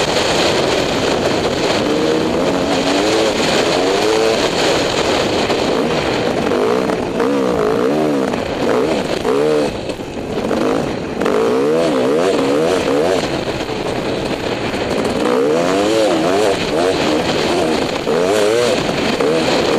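Dirt bike engine revving up and down again and again as it is ridden over rough terrain, easing off briefly about halfway, under a steady rushing noise.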